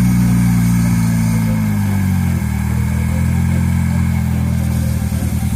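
A PT Cruiser's four-cylinder engine idling while its intake vacuum sucks beer up a hose from a mug. The idle sags about two seconds in as the beer is drawn into the intake, and the engine runs unevenly, with a pulsing beat, near the end.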